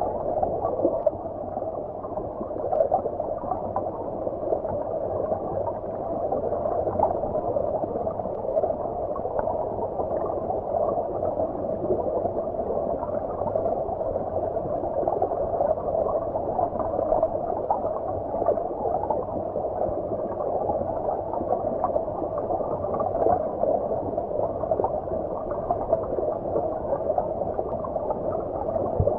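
Stream water flowing and gurgling, heard as if from underwater: a steady, muffled bubbling rush with no high end.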